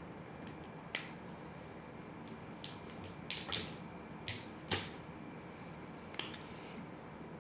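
About seven short, sharp clicks and taps at uneven intervals, from drawing tools being handled on a desk, over a steady background hiss.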